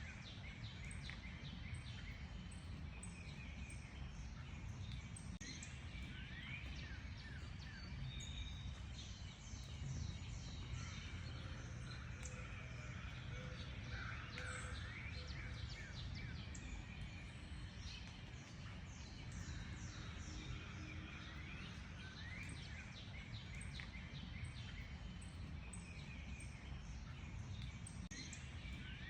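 Several birds chirping and singing together, many short quick notes sweeping up and down in pitch, over a steady low outdoor rumble.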